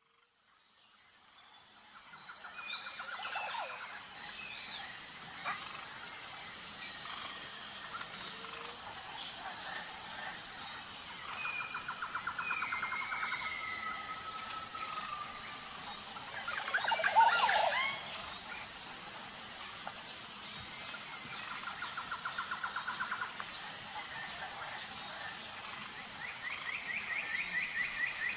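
Outdoor ambience of birdsong: repeated trills and chirps over a steady high hiss, with a louder brief flurry of calls about seventeen seconds in.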